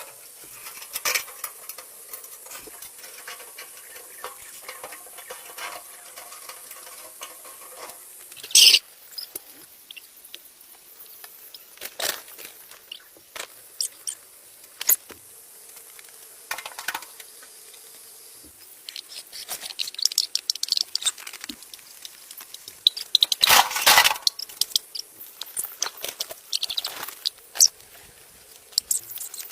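Irregular light clicks, taps and rustles, thickening into a busier patch of scratching and tapping in the second half, with one sharp louder tap about nine seconds in.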